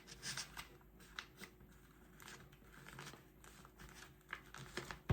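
A sheet of paper being folded and creased by hand: faint, scattered rustles and crinkles, with a sharper crackle near the end.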